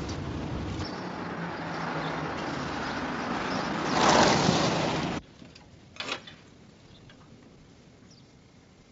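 Car driving: engine and road noise swelling to its loudest about four seconds in, then cutting off abruptly. After that the sound is much quieter, with a single short knock.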